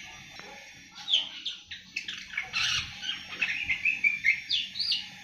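Young awar-awar bird, about seven months old, twittering in a quick run of varied high chirps: the early 'ngriwik' song of a bird just starting to sing. The chirping starts about a second in and ends with a couple of rising notes.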